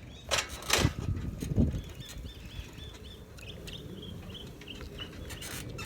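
Knocks and rumble as the bike rolls off into grass, then a bird chirping, a short high note repeated about three times a second.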